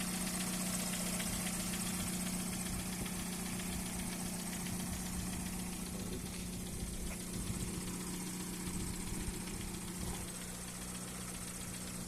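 2008 Kia Sportage engine idling steadily under the open bonnet, run for a listen during a used-car inspection, with an even, unchanging hum.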